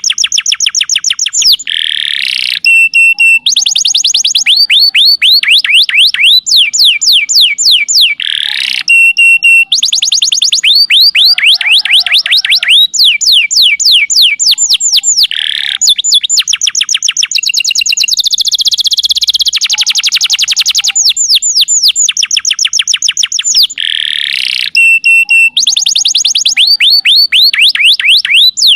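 Domestic canary singing energetically and without pause: long rapid trills of fast repeated falling notes, switching every second or two between rolls at different pitches and short buzzy phrases.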